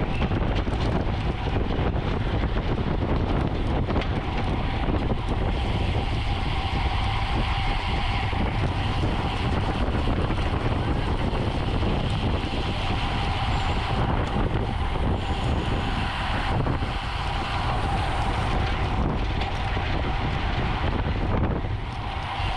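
Wind rushing over the microphone of a camera on a moving road bicycle at race speed, with a steady hum from the tyres and drivetrain underneath.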